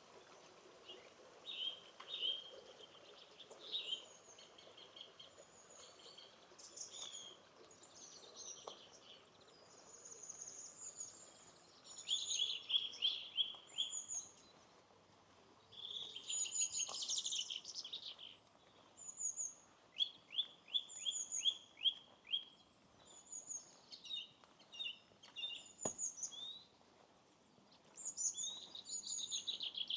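Several songbirds singing in short, overlapping phrases, including runs of rapid repeated notes in trills.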